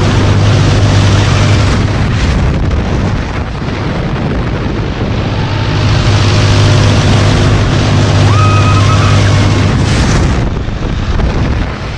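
Wind rushing and buffeting over the microphone on board a moving Mondial Turbine thrill ride, over a steady low hum; it swells and eases in waves as the ride swings, fading about ten seconds in. A brief high whistling tone sounds about eight seconds in.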